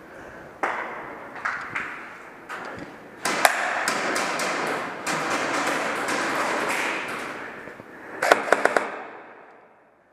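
Airsoft guns firing: scattered sharp snaps, then a quick burst of about five shots near the end, over a rushing noise in the middle seconds.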